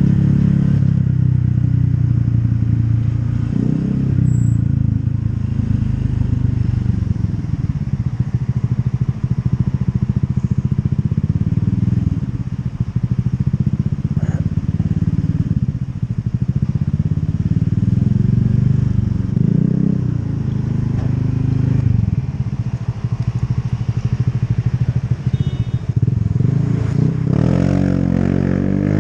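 Motorcycle engine running under way, its revs rising and falling again and again as it accelerates and eases off, with a sharper rev climb near the end.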